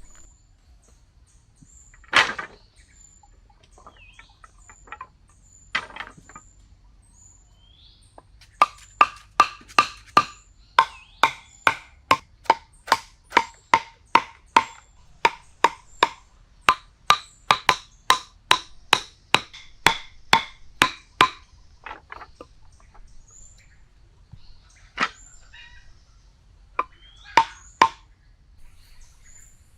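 A run of sharp, ringing knocks, about two or three a second for some twelve seconds, with a few single knocks before and after, over faint high chirps.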